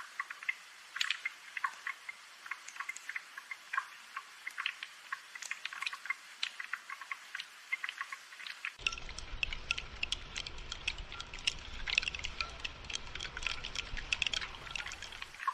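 Rain falling as dense, irregular drips and patter. A low rumble joins about nine seconds in.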